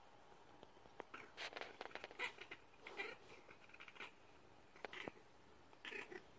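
Pet cat making faint, short chirping, chattering calls in clusters, of the kind a cat makes when it watches birds.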